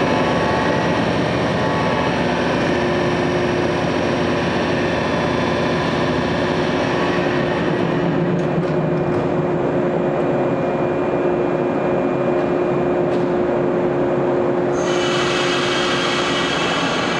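A standing electric train, waiting to depart at an underground tunnel platform, with its on-board equipment running as a steady, loud hum and drone that echoes in the tunnel. A brighter hiss joins about fifteen seconds in.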